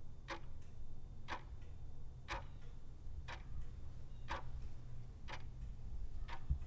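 A clock ticking about once a second, each tick a sharp click, over a low steady hum.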